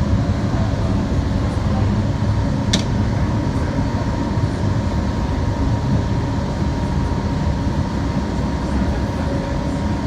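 Steady rumble of a moving transit vehicle heard from inside, with a constant whine running through it and one sharp click a few seconds in.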